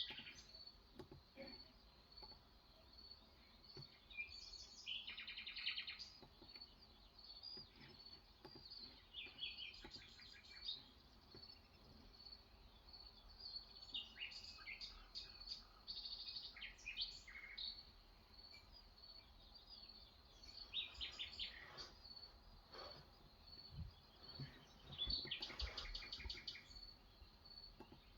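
Faint birdsong: short bursts of chirps and quick trills come and go every few seconds over a thin, rapidly pulsing high note that runs throughout.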